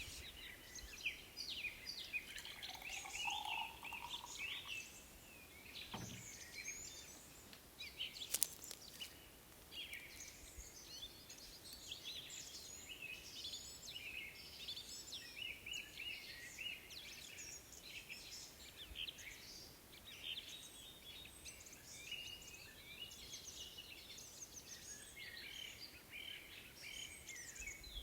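Several songbirds chirping and singing over one another without pause. A single sharp click about eight seconds in.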